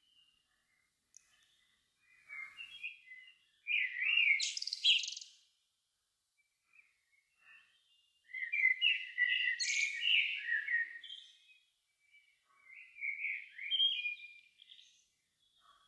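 Songbirds singing: four bursts of quick, varied twittering phrases, each one to three seconds long, with near-silent pauses between them. The longest phrase starts about halfway through.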